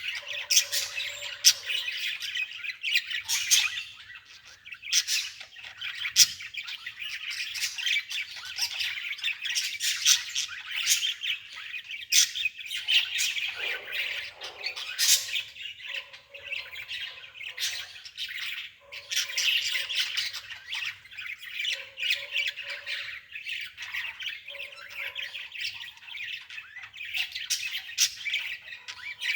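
Birds chirping and squawking in a continuous, busy chatter of many short, sharp calls.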